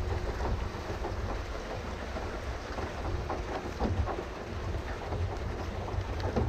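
Water patters and sloshes steadily as a pedal boat's paddle wheel churns along, over a low rumble of wind on the microphone.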